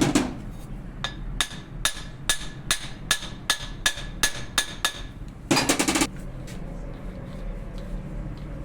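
A hammer striking metal: a heavier knock, then a run of about ten evenly spaced ringing blows, about two or three a second. A short rattling burst follows just past the middle.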